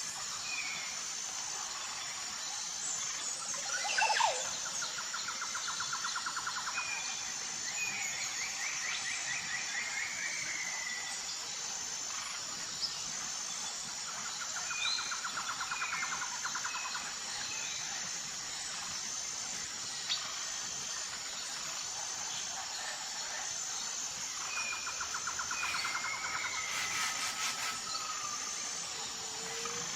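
Tropical forest ambience: a steady high-pitched insect chorus with a pulsing beat, over scattered bird calls and chirps. A rattling trill comes three times, about ten seconds apart.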